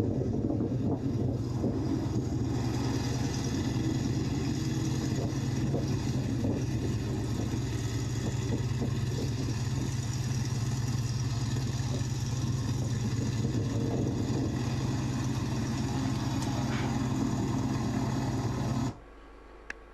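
Boeing Stearman biplane's radial engine running at a steady speed, loud and unchanging, cutting off abruptly near the end.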